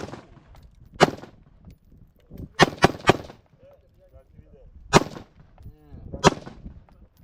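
Gunfire: about seven single shots at uneven intervals, three of them in quick succession near the middle.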